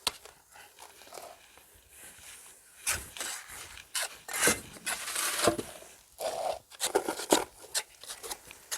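Fireclay bricks being turned over and shifted by hand, scraping and knocking irregularly against one another and the board beneath them.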